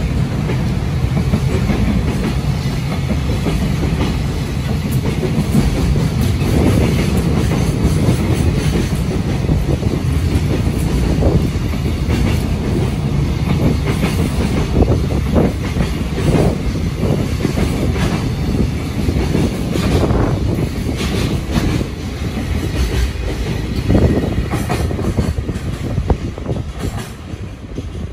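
Freight train of container flatcars passing close by: steady rumble of steel wheels on rail with repeated clacks over the rail joints, dying away near the end as the last wagon goes by.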